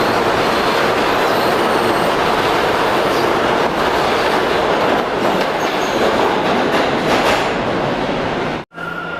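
Subway train running through the station: a steady, loud rumble and rattle of wheels on rails with faint clicking. It cuts off suddenly near the end.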